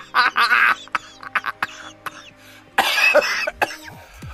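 A person coughing in short bursts, once at the start and again about three seconds in.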